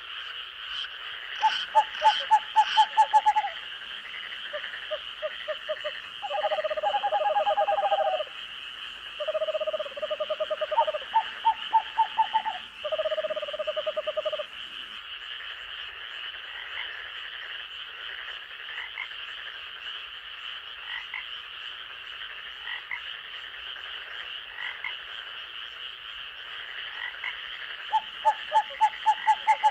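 Night forest chorus of frogs: a steady high-pitched trilling background with loud series of rapid pulsed croaks, about two seconds in, again from about six to fourteen seconds, and near the end.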